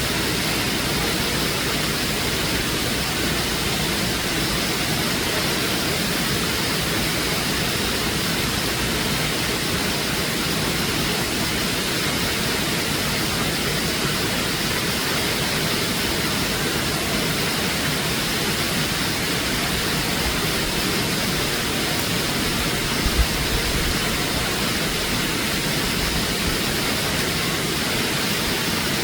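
Waterfall rushing steadily, a constant wash of falling water that does not change. A brief low thump about three quarters of the way through.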